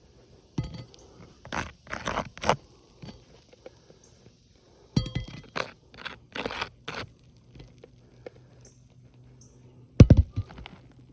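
Gritty crunching and scraping of asphalt shingles being worked by hand, in short separate strokes, with a heavier thump near the end.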